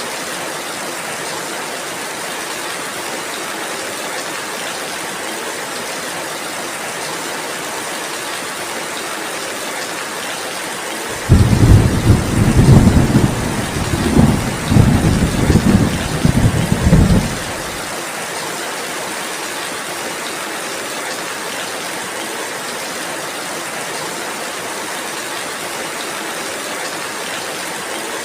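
Steady rainfall throughout. About eleven seconds in, a loud low rumble of thunder starts abruptly and rolls unevenly for about six seconds before stopping, leaving only the rain.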